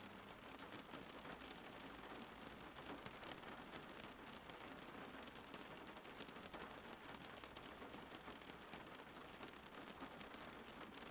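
Steady rain falling, a faint even hiss made of many small drop ticks.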